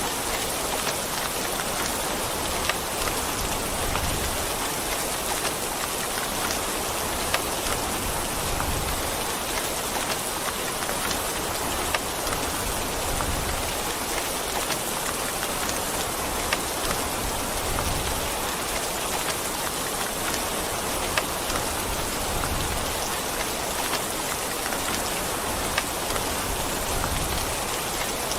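Steady rain falling on a surface: an even hiss with occasional sharper drip impacts every second or two.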